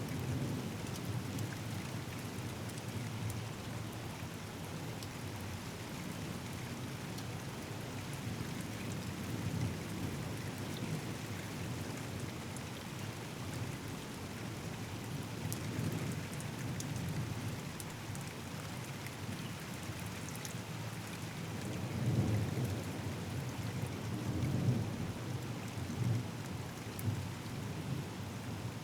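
Steady rain falling, with scattered drops pattering, under low rolling thunder that swells twice near the end.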